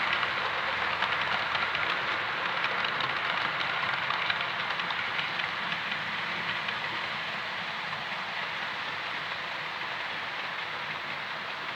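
Model train running on the layout's track: a steady whirring rattle of wheels and motor with fine rapid clicking, slowly growing quieter as it moves away.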